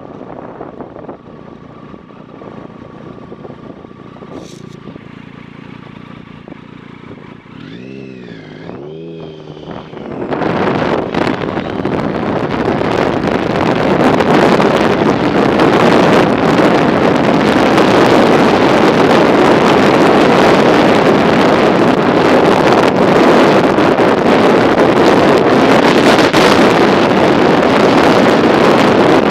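Wind rushing over the microphone of a moving bicycle, turning loud about ten seconds in and staying steady from then on.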